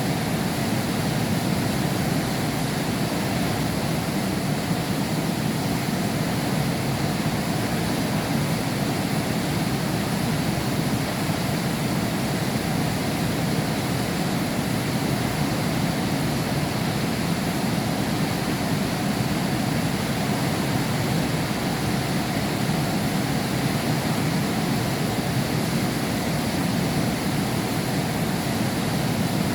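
Heavy rain falling in a steady, unbroken rush, heard from behind a window pane.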